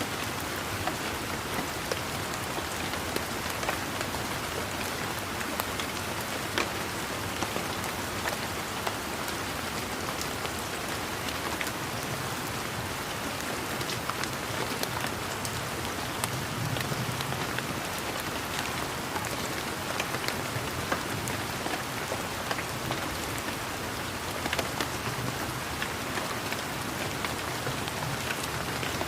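Steady rain falling, with many individual drops ticking sharply throughout.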